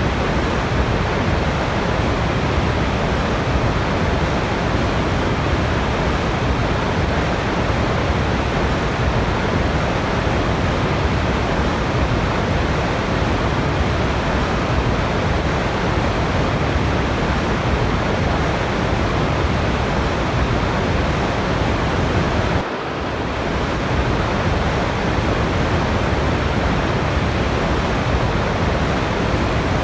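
Steady rushing of a waterfall: a dense, even wash of falling water. About three quarters of the way through it dips briefly and swells back.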